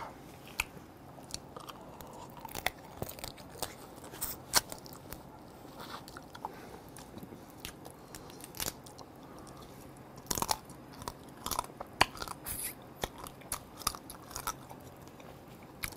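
Close-miked chewing and crunching of soy-sauce-marinated raw blue crab (ganjang gejang), its shell cracking in irregular crackles and clicks, busiest about ten seconds in.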